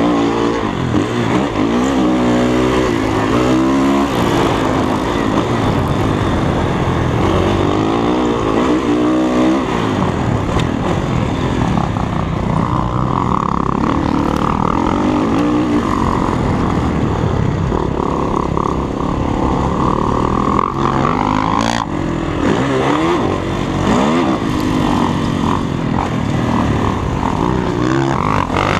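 Dirt bike engine being ridden hard on a motocross track, its pitch rising and falling again and again as the throttle is opened and closed through the gears.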